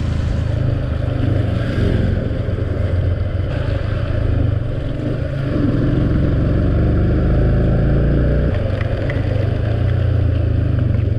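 Steady low rumble of a moving motor vehicle's engine with road and wind noise.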